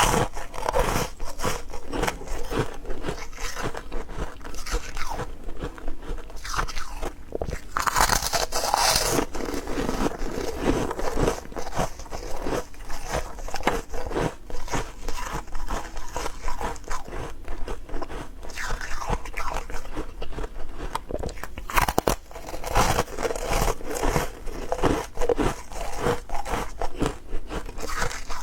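Ice cubes being bitten and chewed close to the microphone: a fast, irregular run of crisp crunches.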